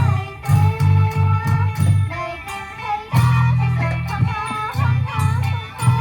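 Isan pong lang folk ensemble playing: plucked-string melody lines over a pulsing low beat.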